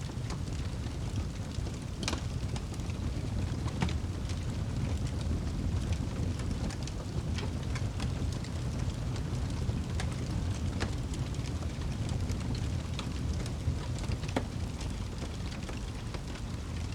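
Wood fire burning in a fireplace: a steady low rumble from the flames with scattered sharp crackles and pops.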